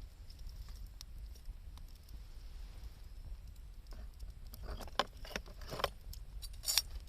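Wood bonfire crackling, with scattered sharp pops and a cluster of louder crackles and snaps over the last few seconds, above a steady low rumble.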